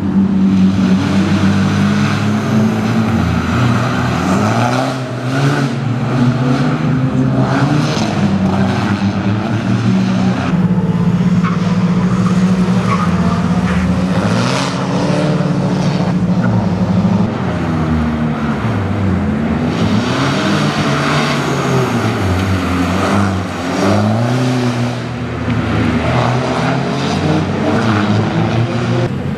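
Rally car engine revving hard, its pitch climbing and dropping again and again as the car accelerates, shifts and brakes through the stage's turns, with a few sharp cracks along the way.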